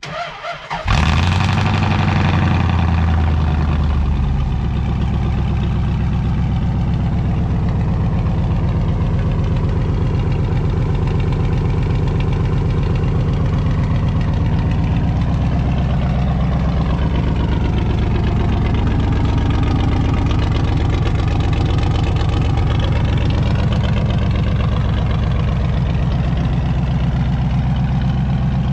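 Dodge 5.2 L V8 on short-tube headers and 2-inch exhaust cold-starting: the starter cranks briefly, the engine catches about a second in and runs a high fast idle, then settles after a few seconds into a steady cold idle.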